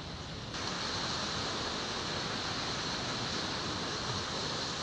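Ocean surf and wind at the shore, a steady rushing noise that steps up about half a second in.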